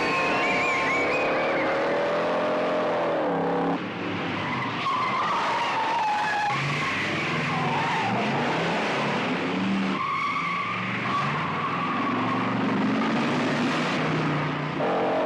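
Car-chase film soundtrack: car engines revving hard and tyres squealing, with the sound changing abruptly at edits about four and ten seconds in.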